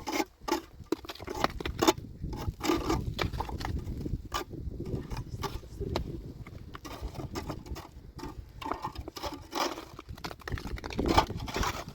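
Irregular scraping and crackling with scattered sharp taps, over a steady low rumble of wind on the microphone.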